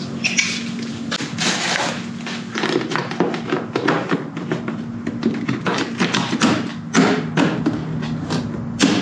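Irregular knocks and taps of hands working on a dirt bike while an oiled air filter is seated in the airbox, over a faint steady low hum.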